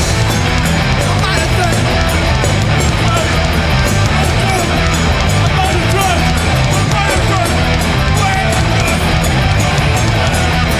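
Hardcore punk band playing live at full volume: distorted electric guitars, bass and fast, steady drums.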